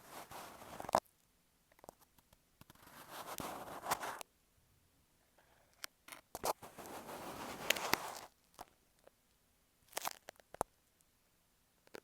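Fingertips scratching and tapping right on an earphone microphone: three scratching passes of one to two seconds each, with scattered light taps between them.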